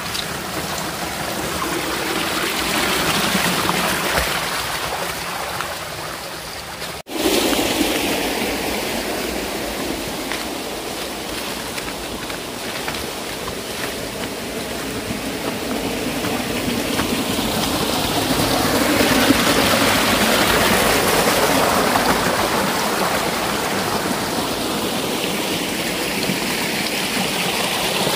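Continuous rushing of flowing water, swelling and easing over several seconds, with a sudden brief break about seven seconds in.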